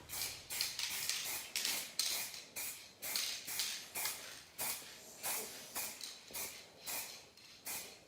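Dupli-Color aerosol primer can spraying in short hissing bursts, about two a second, growing shorter and fainter toward the end.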